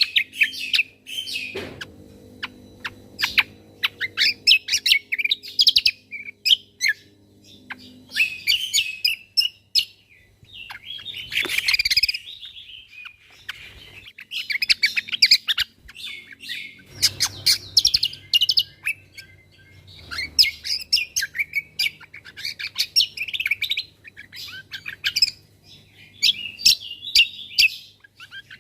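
Cucak kombo songbird singing a fast, chattering song of rapid high chirps and trills, delivered in bursts of a few seconds with short pauses between, the quick 'tembakan' fill-in phrases used to tutor other songbirds.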